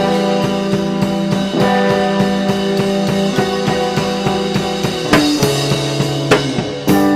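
Music: a band with drum kit and sustained keyboard or organ chords, the drums keeping a steady beat.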